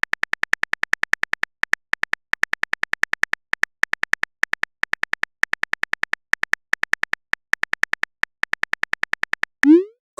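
Phone typing sound effect: a fast run of short, high, same-pitched clicks, about seven a second with brief pauses, as a chat message is typed out. A little before the end comes a short rising swoop, like a message-sent sound.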